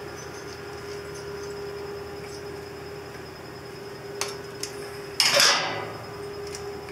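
Small metal clicks from tools and carburetor parts being handled as a pilot jet is swapped, two sharper ticks a little past four seconds and a brief louder rattling scrape about five seconds in, over a steady low hum.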